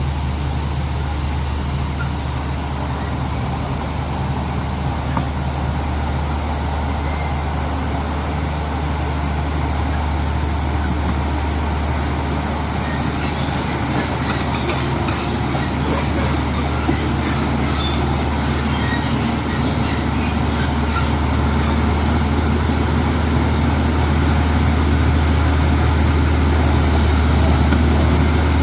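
Heavy truck engine running steadily with a low, even hum, growing a little louder near the end.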